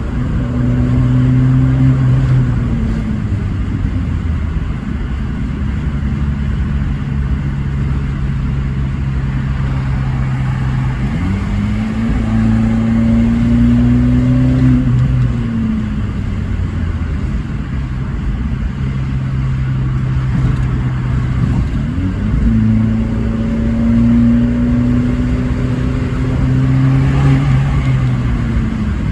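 Abarth 500C esseesse's turbocharged 1.4-litre four-cylinder engine pulling hard under acceleration, its note climbing slowly through three long pulls of several seconds each, with steadier running in between.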